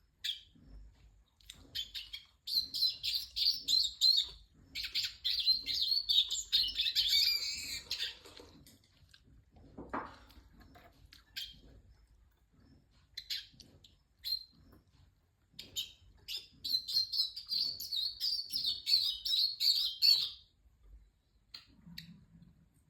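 A pet yellow songbird singing its spring song: two long runs of fast, warbling trills, the first lasting about six seconds and the second, starting about two-thirds of the way in, about four, with scattered single chirps between them.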